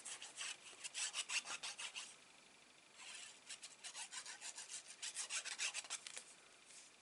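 Quick, repeated rubbing strokes on card stock, about five or six a second, in two runs with a short pause between.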